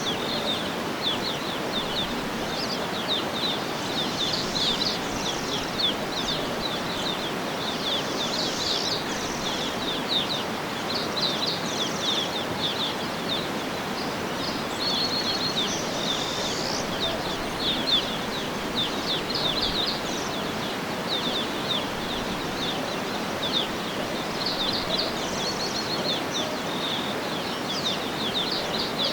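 Songbirds chirping and twittering busily over a steady outdoor background hiss.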